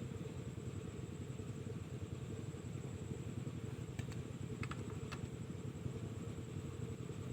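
Diesel engine running steadily, driving a well water pump, with a few light clicks about four to five seconds in.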